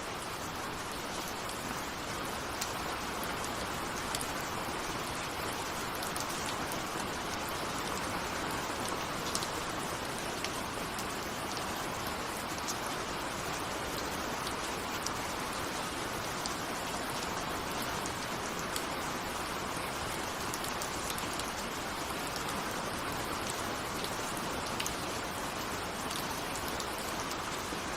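Steady rain with many small raindrop ticks, falling evenly without thunder.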